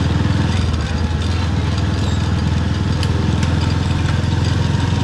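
Motorcycle engine running at a steady pace while being ridden: a low, even drone.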